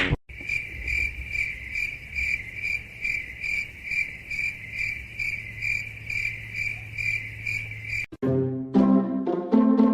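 Cricket chirping in an even pulse of about three chirps a second, over a low steady hum. It cuts off abruptly about eight seconds in, and music starts.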